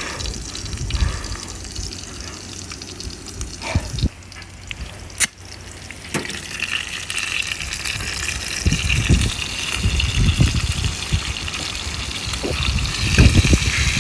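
Strong wind buffeting the microphone in low rumbling gusts, with a sharp click about five seconds in and a steady hiss from about six seconds in.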